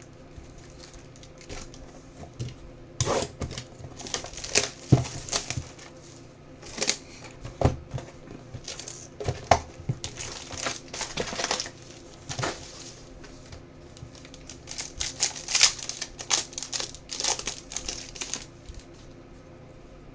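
Trading card box and pack wrapper being torn open and crinkled, with cards handled: irregular crackling and tearing in two spells, about 3 to 12 seconds in and again from about 14 to 18 seconds in.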